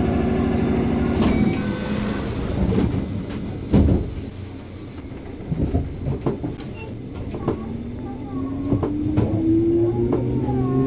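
JR 205-series electric train pulling away, its wheels knocking over rail joints and points, with the traction motor whine rising steadily in pitch from about seven seconds in as the train gathers speed.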